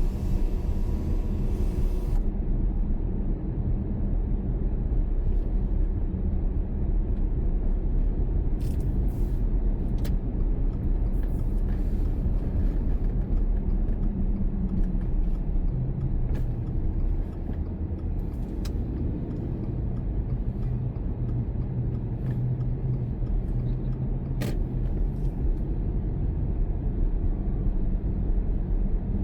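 Car being driven: a steady low rumble of engine and tyre noise, with a few faint clicks.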